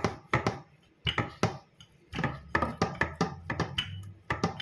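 Quick, irregular knocks and taps on a kitchen board, a few each second with a short pause near the start, as fresh bread slices are flattened out.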